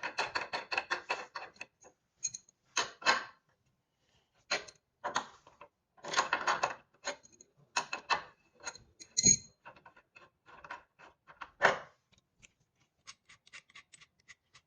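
Hand tools and metal bike parts clicking, rattling and knocking during disassembly of a magnetic exercise bike: a quick run of even clicks at first, then scattered clicks and knocks, with a heavier thump about nine seconds in.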